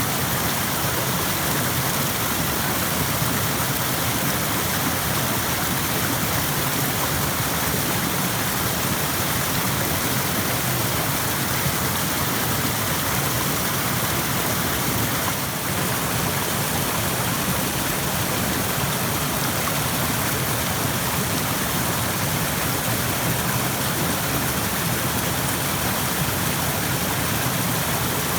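Rushing stream: a steady, unbroken wash of running water.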